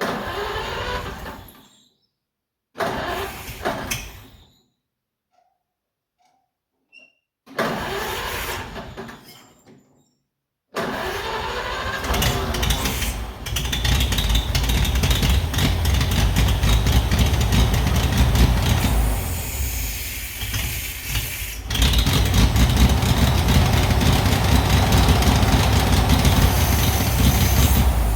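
Oliver 70 tractor's six-cylinder gasoline engine being cranked in three short tries, then catching about eleven seconds in and running, dipping briefly and picking up again about two-thirds of the way through. It runs rough: the owner finds the carburetors flooding and a loose choke being sucked closed by engine vacuum.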